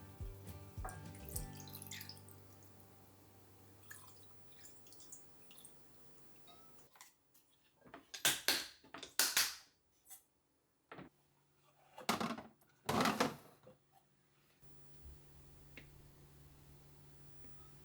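Water running or splashing in four short spurts, in two pairs about four seconds apart, with quiet between them. A few faint kitchen clinks come near the start.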